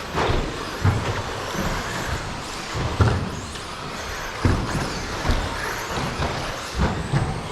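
Several electric RC stadium trucks with 13.5-turn brushless motors racing on a track: brief motor and gear whines rising and falling in pitch over a steady noise, with irregular low thumps.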